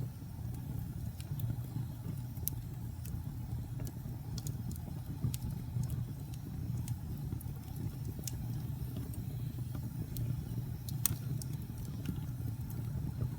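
Wood fire burning in a fireplace: a steady low rumble with scattered crackles and pops, one sharper pop near the end.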